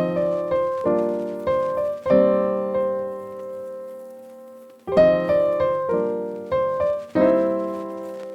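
Background piano music: chords struck and left to ring out, with a longer held chord near the middle.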